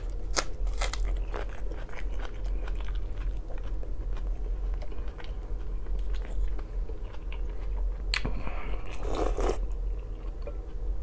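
Close-up chewing and crunching of food, with crisp bites into a raw green onion stalk near the start. A louder noisy stretch comes about eight to nine seconds in.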